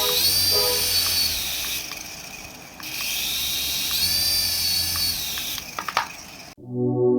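Small electric toy motor whining up to speed, holding and winding down, twice, with a few clicks near the end.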